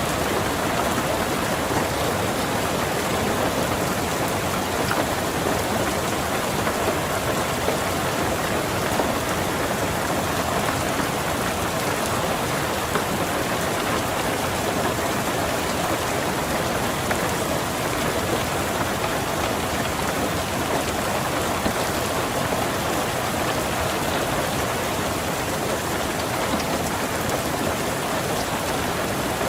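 Steady rain falling on a car's roof and windows, an even, unbroken patter heard from inside the car.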